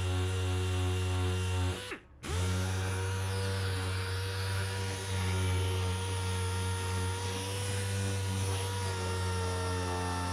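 Handheld electric power tool running at a steady speed. About two seconds in it briefly winds down and stops, then spins back up to the same speed.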